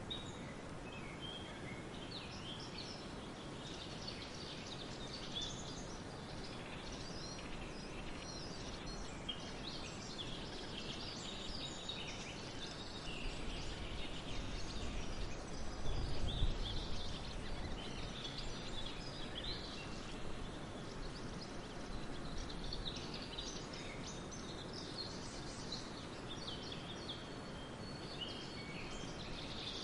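Many songbirds chirping and trilling over a steady outdoor background hiss, with a brief low rumble about halfway through.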